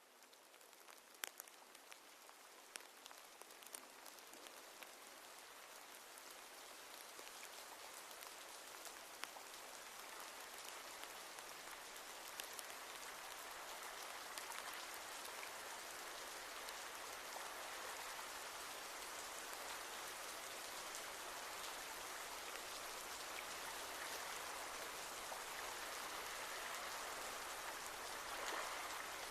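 Rain falling, starting with scattered individual drops ticking and building into a steady, even downpour.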